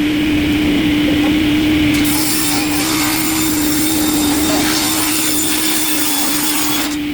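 Industrial wood-processing machine running with a steady hum. About two seconds in, a harsh rasping noise of wood being cut joins it and stops shortly before the end.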